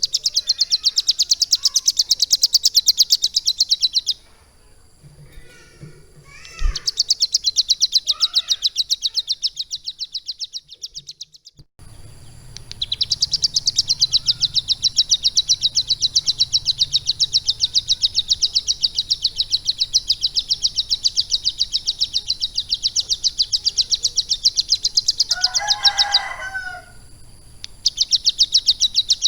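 A ciblek gunung (mountain prinia) singing long, fast trills of rapidly repeated high notes in several bouts with short pauses between them. Near the end a brief phrase of lower chattering notes breaks in before the trilling resumes.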